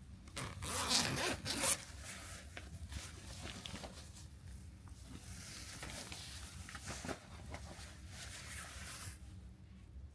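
A zipper pulled open in a few quick strokes just after the start, then softer rustling of fabric or a bag being handled.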